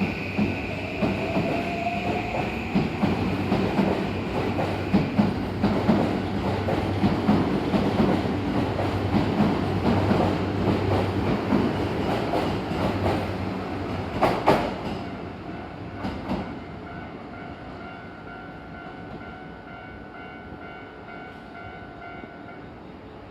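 Toei 5500 series electric train pulling out of a station, its wheels clattering over the rail joints, with a rising motor whine in the first few seconds. A loud clack comes about 14 seconds in, then the train noise fades away.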